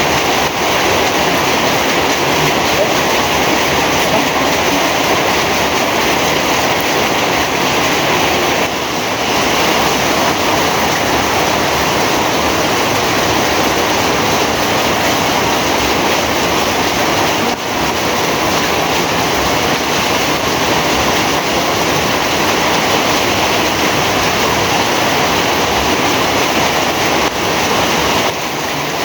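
Heavy rain falling steadily, a dense, even hiss that barely changes.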